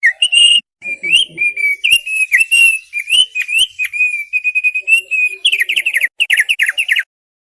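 Thick-billed white-eye (opior paruh tebal) singing a rapid, continuous phrase of chirps and whistled notes, ending in a quick series of down-slurred notes before stopping about seven seconds in.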